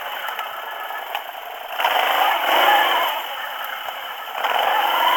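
ATV engine revving up and easing off as the quad is ridden over rough ground, with the machine clattering and rattling throughout. The engine rises about two seconds in, drops back a second later, and picks up again near the end.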